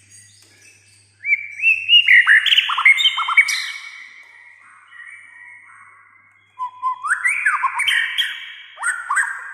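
White-rumped shama (murai batu) singing: two loud phrases of rapid whistled notes with quick downward sweeps, the first starting about a second in and the second about two-thirds of the way through, with fainter twittering between them.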